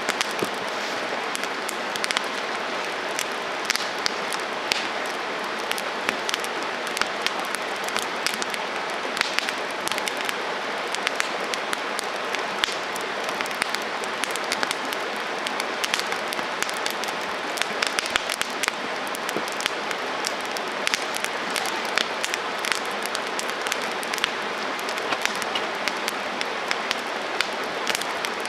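Wood campfire burning: a steady rush of flames with frequent sharp, irregular crackles and pops.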